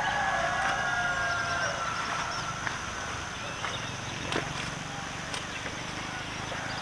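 Farmyard sounds: a drawn-out animal call fading out in the first second and a half, then small bird chirps and scattered clicks over a steady low hum.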